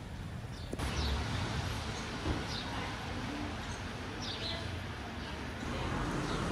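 A small bird chirps several times, short falling calls, over a steady outdoor background hiss.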